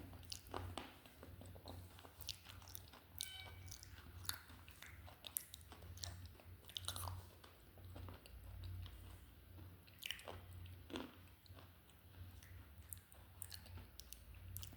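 Slate pencil being bitten and chewed: irregular sharp, brittle crunches and snaps, several a second at times, over a steady low hum.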